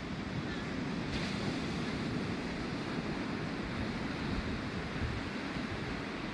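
Ocean surf washing in a steady rush, with wind on the microphone.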